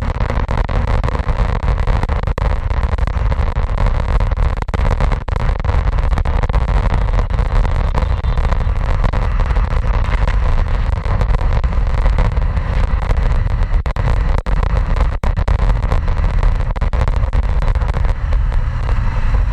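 A BMW motorcycle being ridden at a steady speed: steady engine and road noise with heavy wind buffeting on the microphone.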